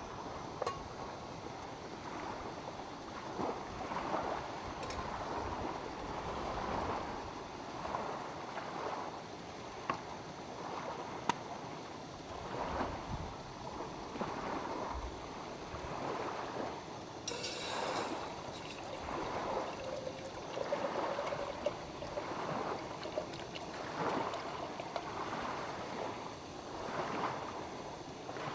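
Small lake waves lapping against the shore, in soft surges every second or two, with a few small clicks and a brief hiss about two-thirds of the way through.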